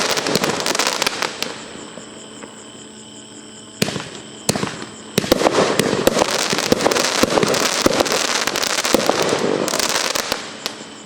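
A 500 gram multi-shot fireworks cake firing, with dense crackling and popping broken by sharp reports. Midway there is a quieter lull with three single sharp bangs, then the dense crackling resumes and fades out near the end.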